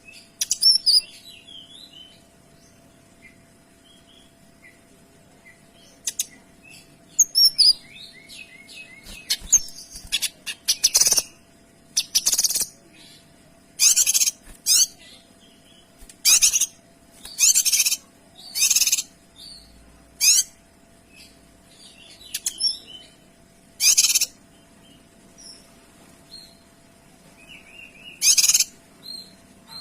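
A kinoy songbird singing in short, loud, very high-pitched bursts, a dozen or so of under a second each, with softer twittering notes between them. A faint steady hum runs underneath.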